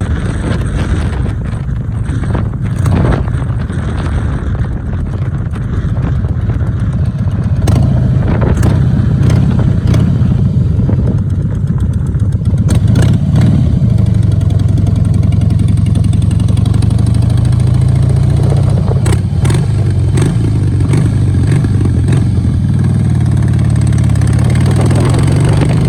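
Harley-Davidson motorcycle's V-twin engine running with a low, pulsing rumble, its note settling steadier about halfway through.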